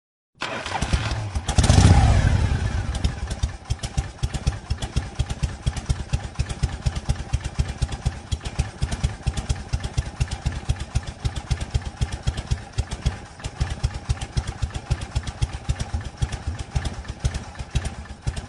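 Motorcycle engine revved once, loudest about two seconds in, then settling to idle with an even, quick pulsing beat.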